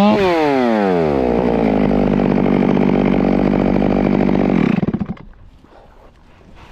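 Chainsaw engine coming off full throttle: its high whine falls over about a second to a low idle, idles for a few seconds, then cuts out about four and a half seconds in. Faint rustling follows.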